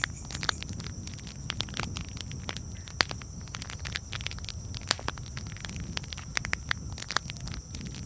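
Wood campfire crackling, with irregular sharp pops and snaps, the loudest about three and five seconds in, over a steady low rumble.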